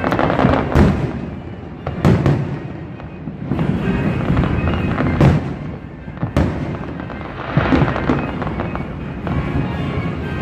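Fireworks going off: a string of sharp, loud bangs a second or few apart over continuous crackling.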